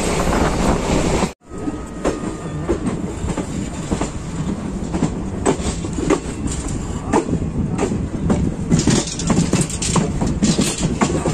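Passenger train running on the rails, a steady rumble with the wheels clacking over rail joints, the clacks coming more often near the end. The sound drops out abruptly for a moment just over a second in.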